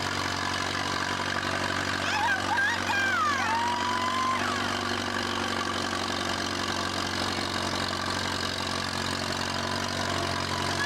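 Old farm tractor's engine running steadily under load while pulling the weight sled down the track, its pitch holding even. A few high, wavering cries rise over it about two to four seconds in.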